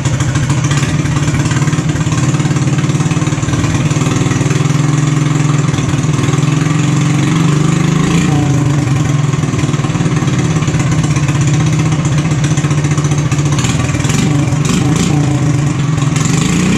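Harbor Freight Predator 420 cc single-cylinder engine running steadily and loud through a custom straight exhaust stack.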